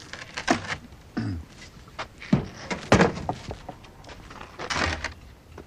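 Domestic ice box being handled: a series of knocks and thunks as its doors and lid are opened and shut, the loudest a cluster about halfway through.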